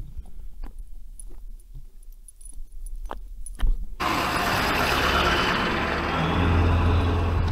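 Faint scattered clicks and light jingling, then about four seconds in a motor vehicle's engine noise sets in abruptly and runs steadily with a low hum.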